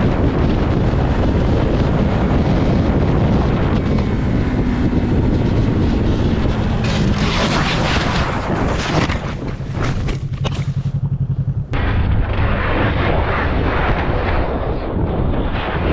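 Motorcycle riding with heavy wind buffeting on the camera microphone over the engine. A pulsing engine note shows through shortly before the sound changes abruptly, about twelve seconds in.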